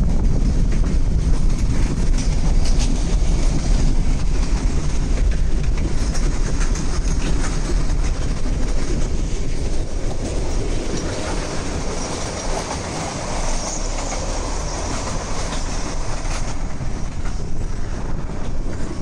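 Meter-gauge passenger train coaches running alongside, wheels clacking over the rail joints, under the low road rumble of the car they are heard from.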